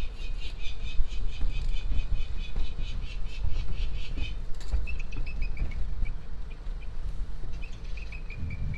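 Small bird calling in quick runs of short high chirps, about five a second for the first four seconds, then two shorter series that fall in pitch, one in the middle and one near the end. A low rumble runs underneath.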